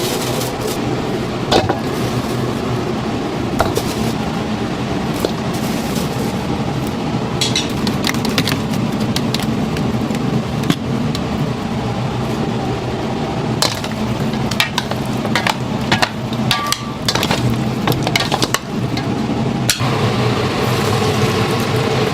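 Chicken deep-frying in a vat of oil, a steady sizzle, with sharp metallic clinks of utensils or fryer baskets scattered through it, most often in the second half.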